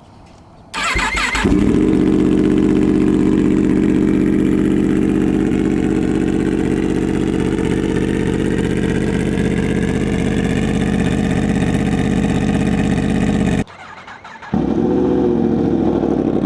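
2025 Yamaha R1's crossplane inline-four starting about a second in, through an SC Project titanium exhaust on a fresh BT Moto Stage 1+ ECU flash. It then idles loudly and steadily. Near the end the sound cuts out abruptly for under a second, then the engine is heard idling again.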